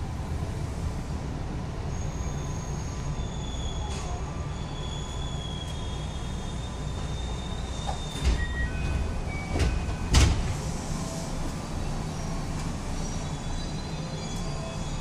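JR West 221 series electric train running on rail with a steady rumble of wheels. A thin, high wheel squeal is heard from about two to six seconds in. Three short, heavy knocks come about eight to ten seconds in.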